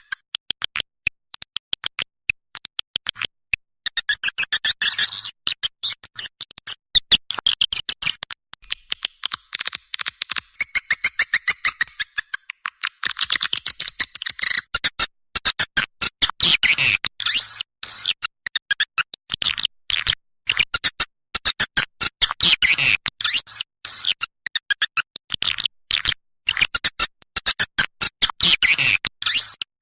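Swiftlet calling recording playing: dense, rapid twittering chirps and clicks in quick runs, the lure sound used to draw swiftlets into a nest house.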